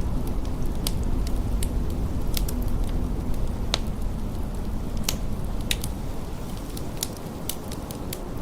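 Wood fire crackling in a fireplace, with irregular sharp pops and snaps, over the steady low rumble of blizzard wind.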